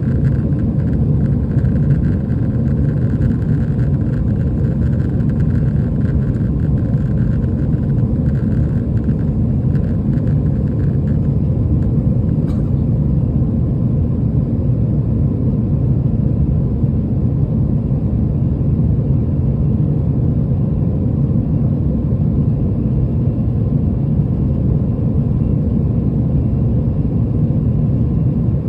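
Steady low rumble of engine and airflow noise inside the cabin of an Airbus A320 airliner, with a faint click about twelve seconds in.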